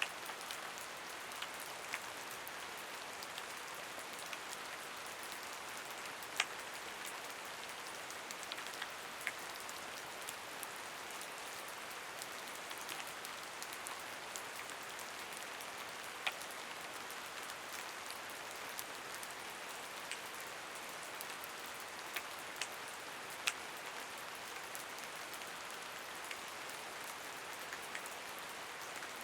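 Steady rain falling, a continuous patter with individual drops ticking out sharply every so often.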